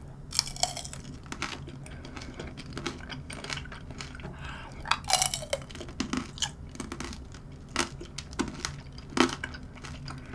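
Close-miked chewing of tanghulu, candied cherry tomatoes in a hard sugar glaze, with irregular sharp crunches as the brittle sugar shell cracks between the teeth.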